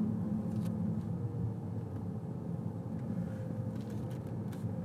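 Steady low rumble of a car driving, heard from inside the cabin, with a faint steady whine above it and a few faint ticks.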